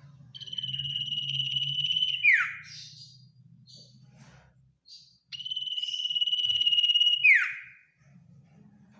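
Common iora singing twice: each time one long, fast trill held on a single high pitch for about two seconds, ending in a quick downward slide. This is the long 'ngetir' trill, sung as a call to rival birds. A low steady hum runs underneath.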